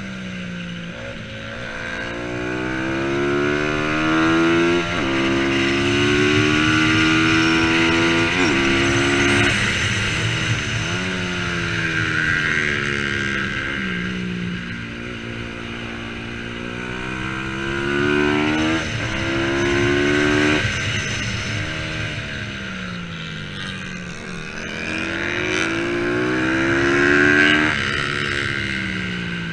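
Bajaj Pulsar 200 NS single-cylinder engine at race pace. It revs up through the gears, with sudden drops in pitch at each shift, then winds down when braking, and the cycle repeats several times.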